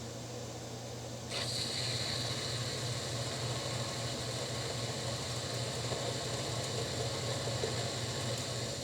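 Metal lathe running with a steady motor hum; about a second in, the cutting tool begins turning square stainless steel stock round, adding a steady hissing cutting sound over the hum.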